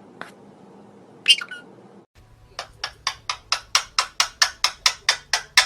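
A parrot gives one sharp squawk, then a fast, even run of about a dozen short, sharp calls, about four a second.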